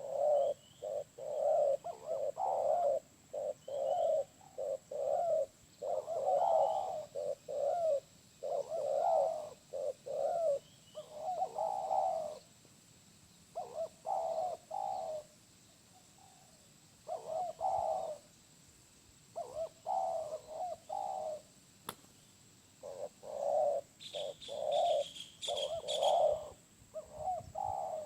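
Spotted dove (tekukur) cooing over and over in short phrases of several low notes, with brief pauses between phrases. A smaller bird chirps high above it, most clearly near the end.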